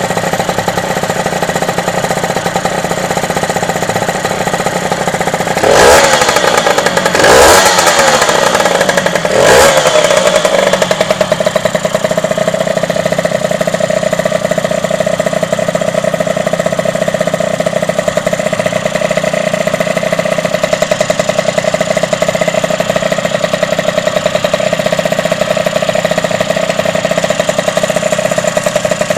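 Derbi DRD motorcycle's freshly rebuilt two-stroke engine idling, given three quick revs between about six and ten seconds in, then idling steadily again.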